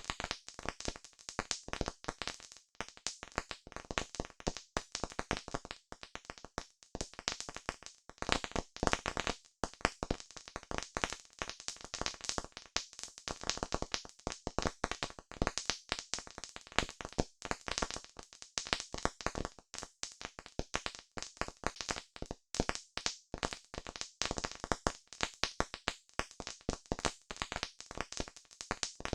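Campfire crackling, with a dense, irregular stream of sharp snaps and pops.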